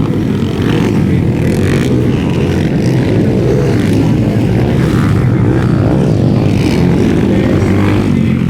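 Several underbone motorcycle engines racing together, their pitch rising and falling as the riders work the throttles.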